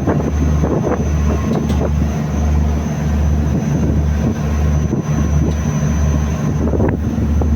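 Passenger boat's engine rumbling steadily underway, with wind buffeting the microphone.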